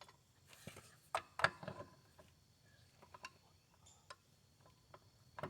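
Ratchet wrench clicking and metal clinks in scattered short runs while an engine mounting bolt is being loosened, the busiest stretch about a second to two seconds in.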